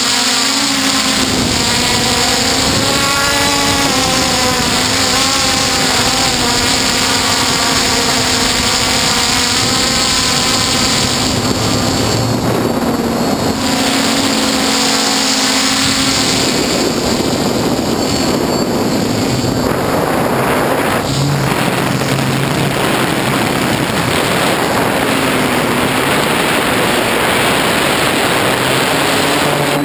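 F450 quadcopter's motors and propellers running loud, heard from its onboard camera: a steady hum with a high motor whine, the pitch shifting up and down through the first half as the throttle changes.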